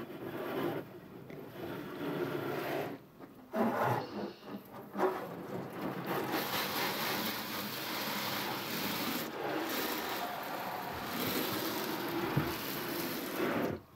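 Car-washing noise: a steady hiss of spray with rubbing and scraping, irregular and broken at first, that cuts off suddenly near the end.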